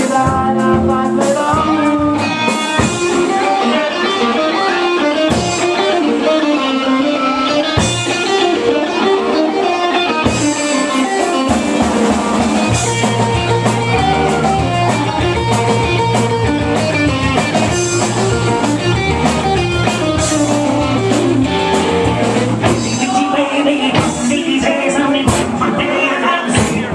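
Live band playing amplified music, with guitar prominent. A low bass part joins in from about halfway through and drops out near the end.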